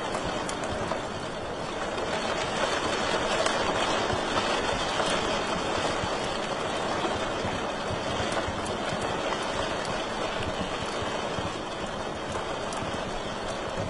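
Wood fire crackling in a fireplace: a steady hiss of burning with many small, sharp pops scattered throughout.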